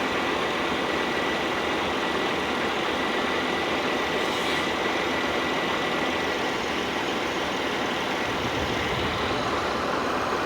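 Car engine idling with the air conditioning running on max, a steady even running noise with a faint steady whine above it.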